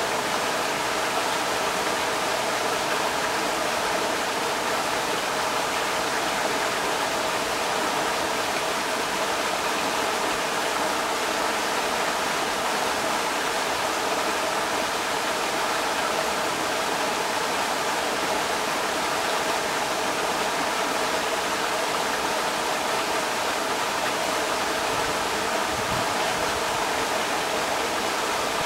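Creek water rushing over rocks in a steady, even rush.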